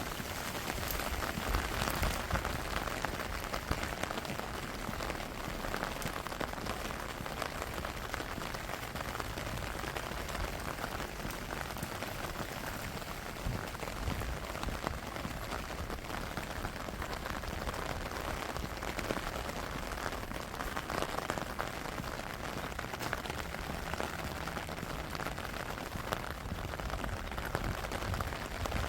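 Steady rain falling, with dense pattering of drops on surfaces close to the microphone.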